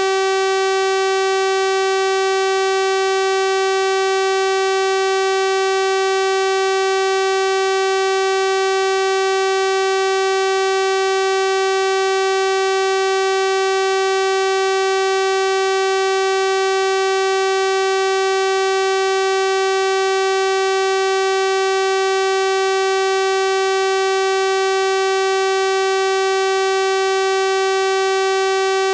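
Synthesized 384 Hz sawtooth-wave tone held at one steady pitch and level, a bright buzzing sound rich in harmonics.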